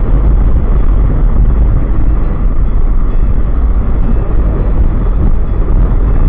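Wind buffeting the microphone of a moving motorcycle, a loud, steady low rumble of rushing air with the ride's engine and road noise under it.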